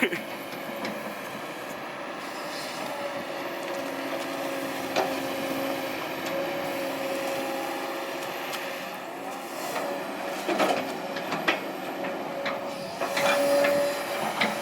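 Kobelco SK200-8 Super XM excavator at work trimming a slope: engine and hydraulics running with a steady whine, with several sharp knocks from the machine working the ground.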